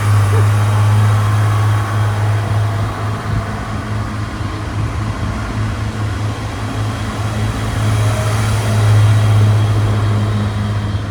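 Diesel engines of a RENFE Class 592 diesel multiple unit running with a steady low drone over rumbling noise, growing a little louder about eight seconds in.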